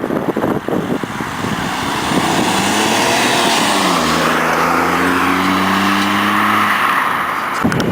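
Diesel VW Polo 9N3 with an aftermarket Sebring exhaust accelerating: the exhaust note rises in pitch, drops at a gear change just under four seconds in, then climbs slowly again.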